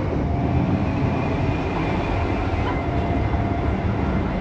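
Steady running noise inside a moving express passenger train at speed: a continuous low rumble of wheels on rails with faint steady whines over it.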